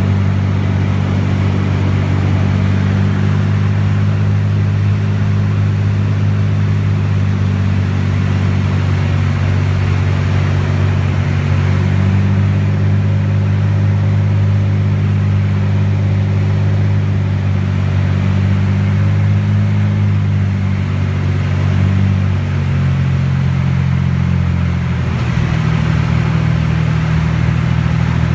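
T-34 Mentor's piston engine and propeller running steadily in flight, a continuous low drone whose note shifts slightly near the end.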